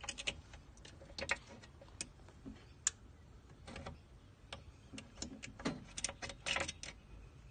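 Irregular light clicks and taps, more than a dozen, bunched near the start and again in the last two seconds, over a faint background hum.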